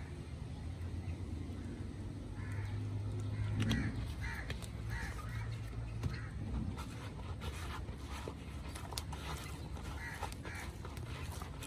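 Short bird calls repeating every second or so, over a steady low hum with scattered faint clicks.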